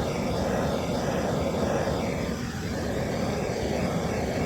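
Torch flame burning steadily with a rushing noise while it heats the end of a polypropylene water line to soften it. It dips briefly about halfway through.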